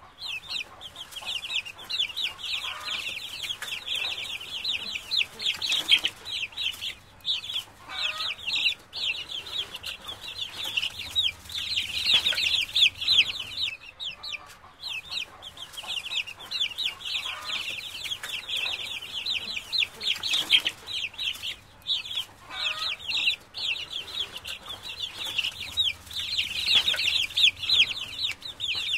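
A brood of ducklings peeping constantly, many high, rapid peeps overlapping, with a few lower calls now and then.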